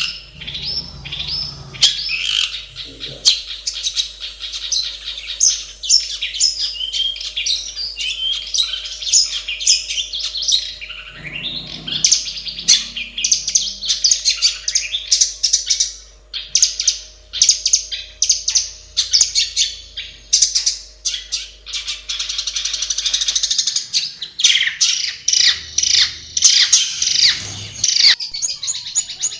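Long-tailed shrike (cendet) singing a long, fast, unbroken run of chattering chirps and scratchy notes.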